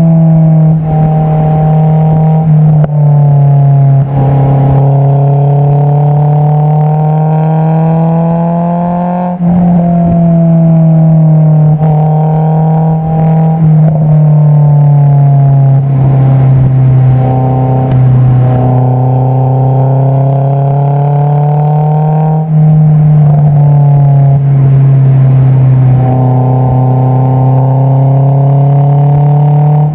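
Exhaust note of a Honda S2000's 2.2-litre four-cylinder through an Invidia Q300 cat-back, heard at the tailpipe while cruising at moderate revs. The drone climbs and sags in pitch with road speed, and several short dips and pitch steps mark gear changes.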